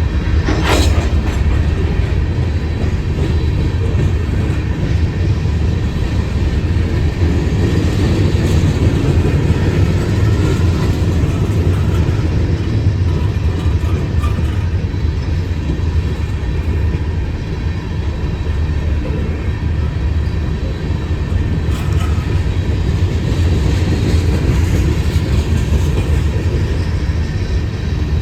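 A freight train rolling steadily past at close range, a continuous loud rumble of steel wheels on rail.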